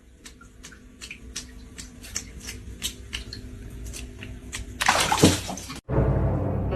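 Water splashing in a small room: irregular small splashes and drips that grow louder, with a louder rush of water about five seconds in. It cuts off suddenly and music starts.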